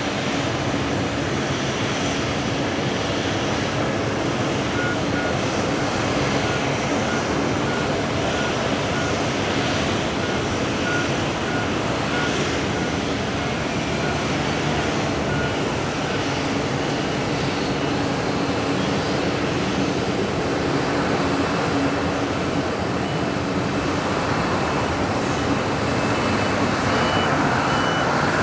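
Boeing 777-200's Pratt & Whitney PW4074 turbofans running steadily at low ground power. A ground vehicle's reversing beeps repeat for several seconds, and another beeping starts near the end.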